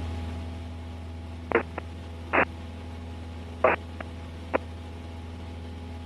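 Steady low hum of a Cessna 172S engine and cabin heard through the aircraft's intercom audio, easing down over the first second. About six short clicks of radio static come between one and a half and four and a half seconds in.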